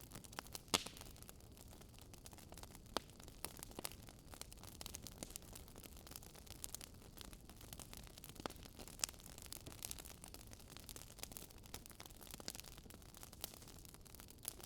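Wood fire crackling: scattered irregular pops and snaps over a steady soft hiss.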